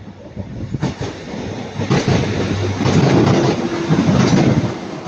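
Northern Class 150 diesel multiple unit passing close by, growing loud about two seconds in. A steady low diesel engine hum sits under the wheels clicking over rail joints.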